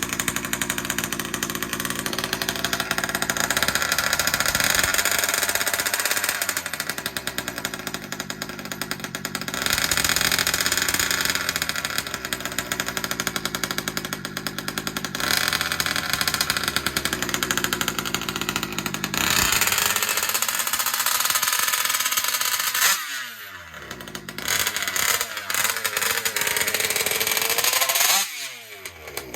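Two-stroke gas engine of a 1/5 scale RC car running at high revs, with the revs dropping sharply twice near the end.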